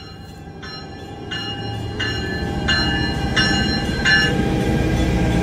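Exo commuter train's diesel locomotive approaching, its rumble growing steadily louder, with a bell ringing about every 0.7 s that stops about four seconds in.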